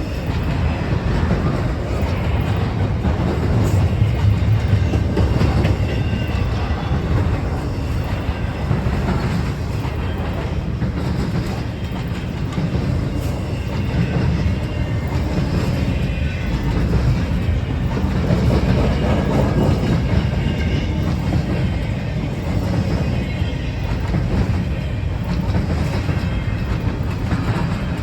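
Freight train rolling past with a steady, continuous rumble of wheels on rails, and scattered clicks as the wheels cross track joints.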